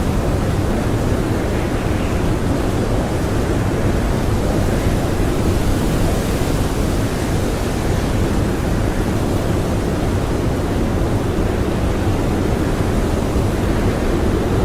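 Strong blizzard wind blowing steadily, a dense, unbroken rushing noise with a heavy low rumble.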